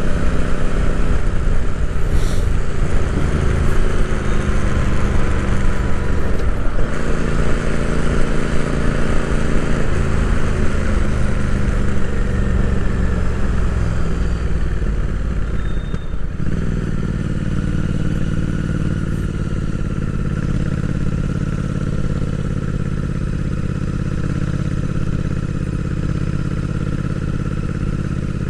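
Royal Enfield Interceptor 650's parallel-twin engine heard onboard while riding, its pitch rising and falling with throttle and gear changes. About halfway through the sound dips briefly, then runs steadily and a little quieter.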